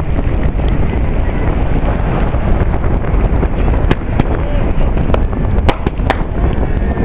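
Strong wind rumbling on the microphone, with scattered sharp pops and cracks from small handmade fireworks. The cracks come several times in the second half.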